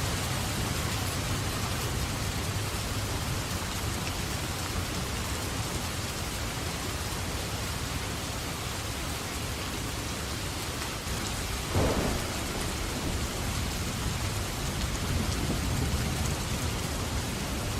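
Steady rain falling, with a low rumble of thunder underneath. A sudden clap of thunder about twelve seconds in is the loudest moment, followed by more rolling rumble.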